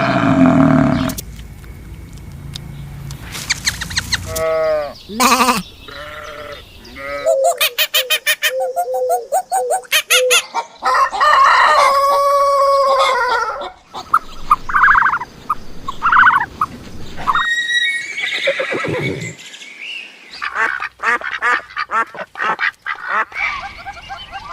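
Farm animals calling, one kind after another, changing abruptly every few seconds: strings of repeated pitched cries that bend up and down in pitch.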